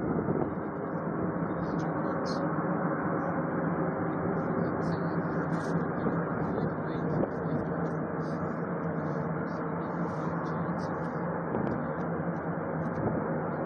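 A vehicle engine running steadily: a constant drone with a low hum.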